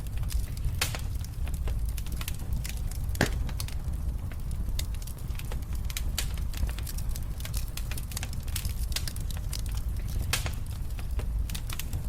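Wood fire in a fireplace crackling and popping over a steady low rumble of the flames, with a sharper pop about three seconds in.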